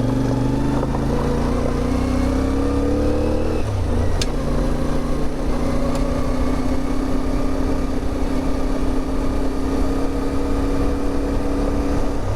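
CFMOTO 450MT's parallel-twin engine under way: the engine note rises as it accelerates for the first three and a half seconds, drops with a gear change, then holds nearly steady at a cruising pace.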